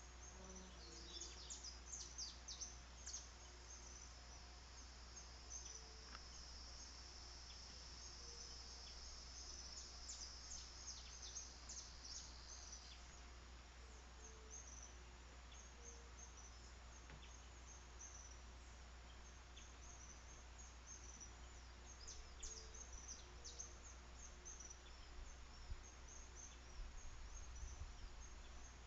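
Faint outdoor ambience of many short, high bird chirps scattered throughout. A steady, high insect trill runs through about the first half and stops around the middle, over a constant low hum.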